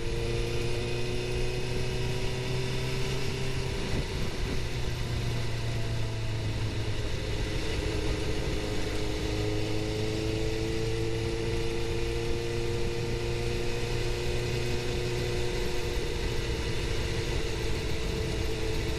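Suzuki GSX-R750's inline-four engine running steadily under way, its pitch dipping a few seconds in and then slowly climbing as the bike picks up speed, over a steady rush of wind noise.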